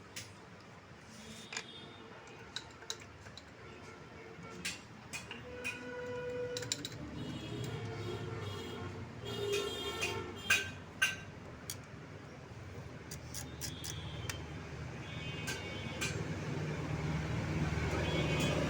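Scattered light metallic clicks and clinks of tools and parts being handled, with a low machine hum building from about seven seconds in.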